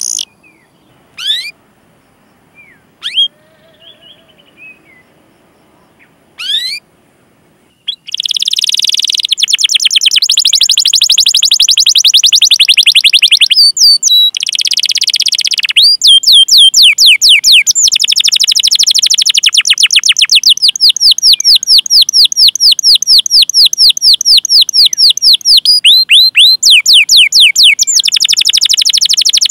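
Domestic canary singing: a few separate quick chirps at first, then, about eight seconds in, a long loud run of rapid, evenly repeated high 'cuit cuit' notes rolling on with only brief breaks.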